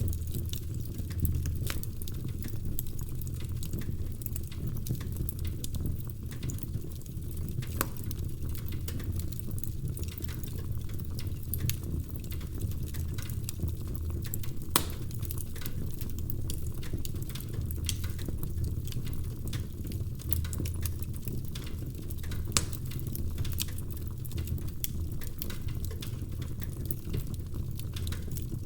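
Wood fire burning in a fireplace: a steady low rumble with irregular crackles and pops from the logs, a few of them sharper and louder.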